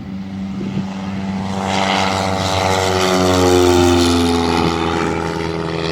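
Propeller airplane taking off at full power and passing by: its engine grows louder, then drops in pitch as it goes past, about three and a half seconds in.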